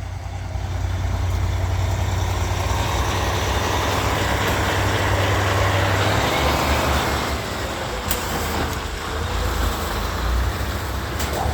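Engine of a large vehicle such as a truck running close by: a steady, loud rumble with a low hum that changes about halfway through.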